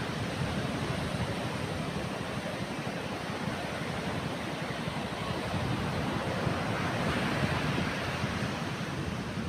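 Strong wind off the sea and breaking waves: a steady rushing noise with the wind buffeting the microphone in a fluttering low rumble, swelling a little about two-thirds of the way through.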